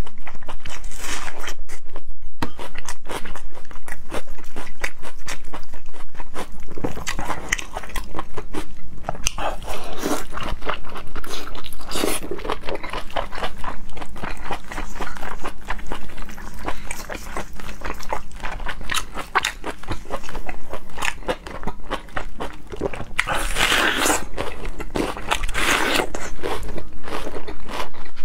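Close-miked eating: crunching bites of raw red onion and chewing of braised pig intestines, with louder bursts of crunching about ten and twelve seconds in and again near the end.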